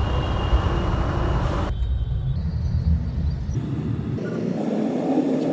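Road traffic in a jam: a steady rumble of vehicles running in slow, congested traffic. The sound changes abruptly about two seconds in and again near four seconds, like jumps between clips.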